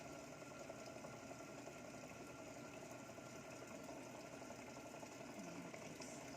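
Samsung top-load fully automatic washing machine running its wash cycle: a steady, faint rush of water in the tub over a low machine hum.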